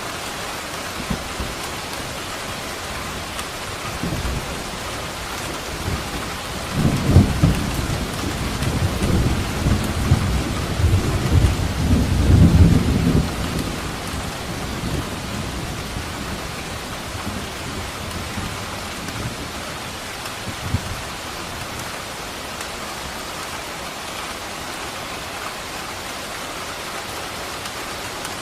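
Steady rain falling, with a roll of thunder rumbling low for about six seconds near the middle, loudest near its start and again toward its end.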